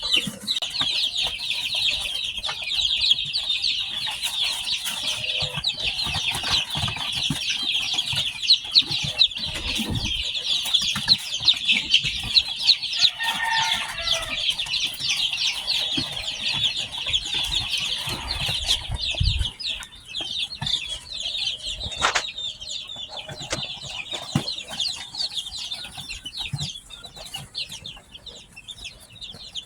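A brood of newly hatched chicks peeping continuously, a dense chorus of short high cheeps that grows sparser in the last third. A single lower-pitched call rises above the peeping about halfway through.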